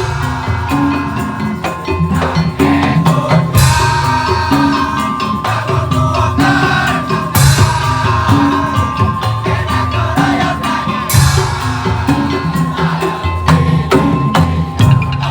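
Madurese musik tong-tong (ul daul) ensemble playing: drums beat a repeating low pattern under a held high melody line, with three loud crashes about four seconds apart.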